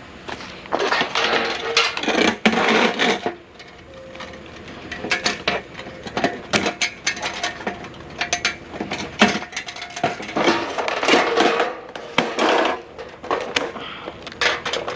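Irregular clicking, clanking and rattling of scrap and gear being handled and a load being secured, in bursts with short pauses.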